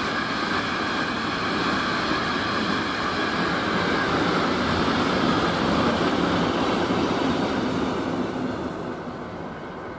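Freight train's wagons rolling past on the rails: a steady rolling noise with a faint high steady tone in it. It swells in the middle and fades near the end as the last tank wagons go by.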